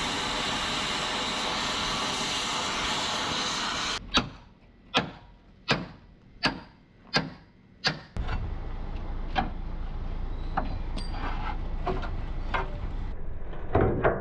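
Truck chassis repair work: a steady, loud hiss for about four seconds. It cuts to six sharp strikes about three quarters of a second apart, then to a low rumble with scattered light knocks.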